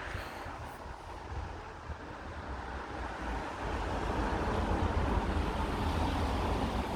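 Wind buffeting the microphone outdoors: a low rumble under a steady rushing noise that grows louder from about three seconds in.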